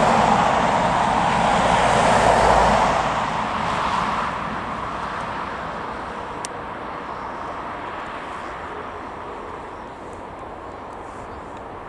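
Jet airliner passing close by, its engines a loud rushing noise in the first three seconds, then fading steadily as the aircraft moves away.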